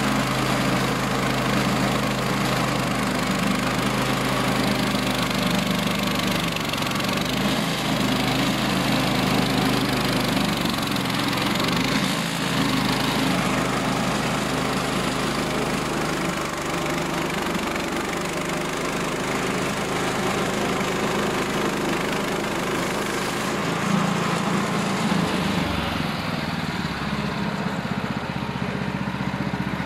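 Small petrol engine of a sawmill running steadily, its note shifting slightly twice along the way.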